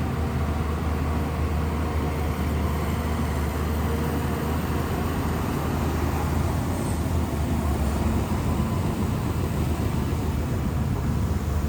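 Shantui crawler bulldozer's diesel engine running steadily with a low drone.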